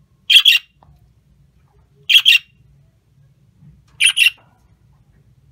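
Pet parrot squawking loudly three times, each a quick harsh double squawk, about two seconds apart.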